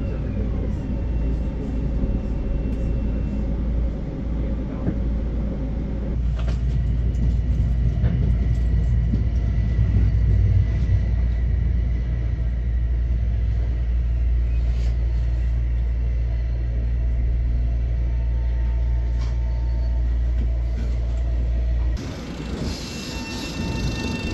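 Long Island Rail Road train running past with a heavy, steady low rumble and a few faint whining tones. The rumble drops off abruptly near the end.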